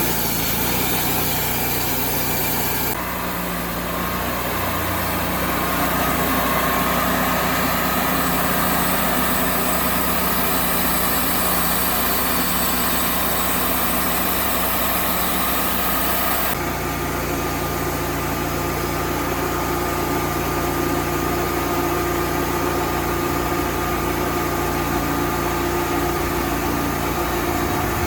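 An engine running steadily; its tone changes abruptly twice, about three seconds in and again about halfway through.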